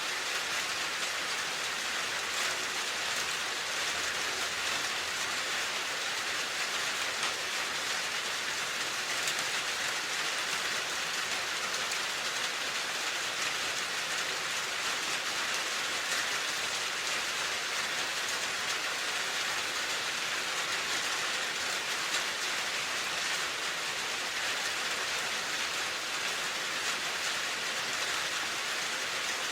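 Calm, steady rain falling: an even hiss with scattered faint drop ticks that doesn't change.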